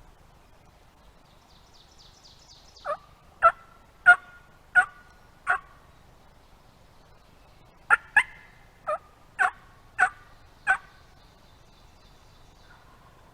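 Turkey yelping: two loud runs of short, sharp yelps, five in the first about three seconds in and six in the second about eight seconds in. A faint songbird trill sounds just before the first run.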